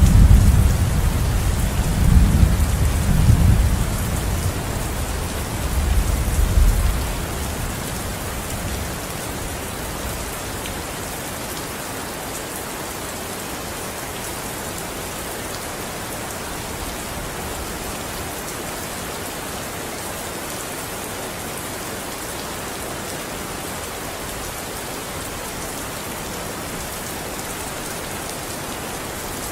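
Steady rain falling, with a low rumble of thunder over the first several seconds that dies away about a quarter of the way in.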